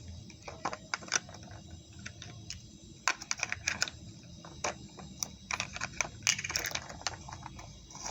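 Small hard plastic pieces clicking and tapping irregularly as miniature toy food and the parts of a toy refrigerator are handled and fitted into place.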